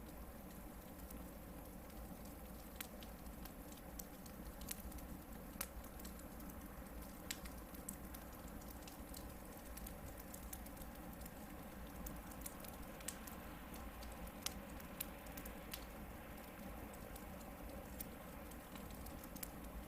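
Hardwood campfire burning: irregular sharp crackles and pops, a dozen or so scattered through, over a steady low rumble of the flames.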